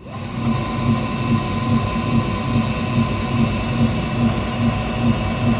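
BP02 belt-drive pottery wheel running at about 300 RPM: a steady motor hum with a regular, rhythmic thumping from the drive belt. The maker explains the thump as normal belt behaviour, caused by the belt taking a set around the small motor pulley and by stick-slip between belt and pulley after long idle or in the cold, and not a fault.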